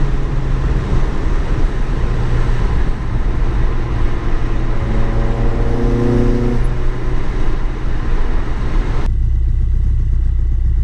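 Car engine pulling at speed under dense wind and road noise. About nine seconds in the sound cuts abruptly to a low, steady engine rumble.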